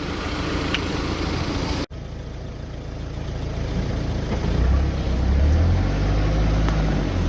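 Vehicle engine running, with a brief sharp break about two seconds in; from about halfway through the engine note grows louder and rises a little, as under throttle.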